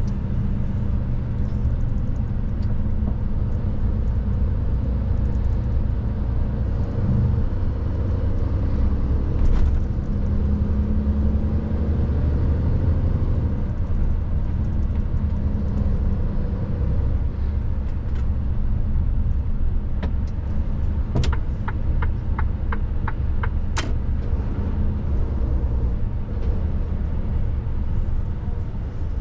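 Mercedes truck running steadily at road speed: a continuous low engine drone with road rumble. A single click comes about a third of the way in, and a short run of about eight quick, evenly spaced ticks comes about three-quarters through.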